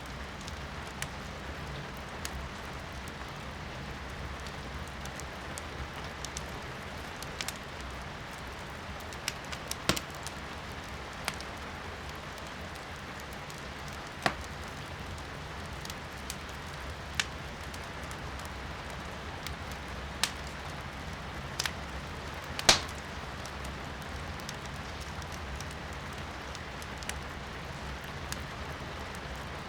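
Firewood crackling in a fireplace, with sharp irregular pops scattered through, the loudest about two-thirds of the way in, over a steady patter of rain.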